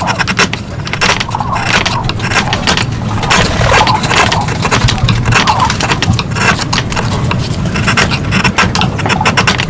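Rapid, irregular scraping and clicking from hand tools working wood, with a low rumble underneath.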